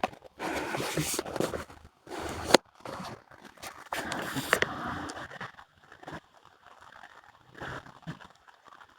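Intermittent rustling and scraping with a few sharp clicks, loudest in the first half, then fading to faint scattered noises.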